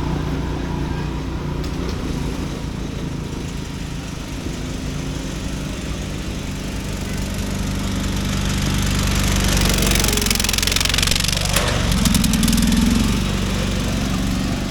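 Riding lawn mower engines running during an offroad race, one growing louder as it comes close about two-thirds of the way in, with a sharp knock and a rise in engine pitch just after.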